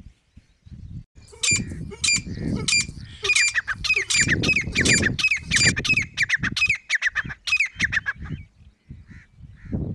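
Grey francolin (desi teetar) partridge giving a rapid run of shrill, sharp call notes, about three a second for some seven seconds, over irregular low rustling and knocking.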